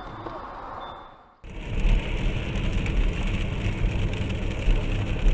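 A brief fading sound, then steady car engine and road noise as picked up by a dash cam, starting abruptly about a second and a half in.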